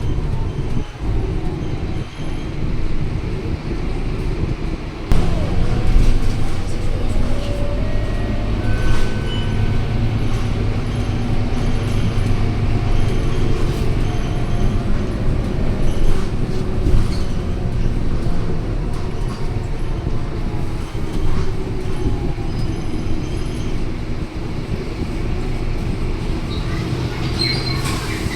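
Scania K230UB bus's five-cylinder diesel engine and drivetrain running as the bus drives, heard on board. The engine drone holds steady while a whine rises and falls slowly as the bus gathers and sheds speed, with some rattles.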